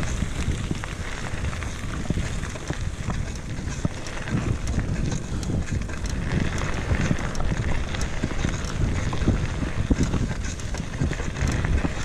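Bicycle tyres rolling over a dirt trail with small crunches and clicks, under a low rumble of wind buffeting the microphone.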